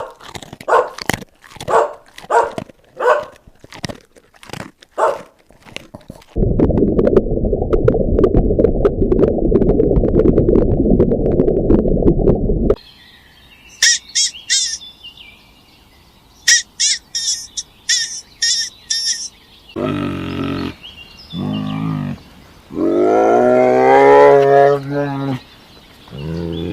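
A run of different animal calls, one after another. Short repeated pulses come first, then a loud steady rasping sound for about six seconds, then quick high chirps in bunches, and last several long calls that rise and fall in pitch.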